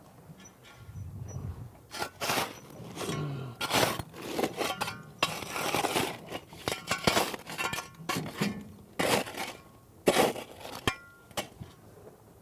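Irregular clinks, knocks and scrapes of hard objects being handled, with a longer scraping stretch about halfway through.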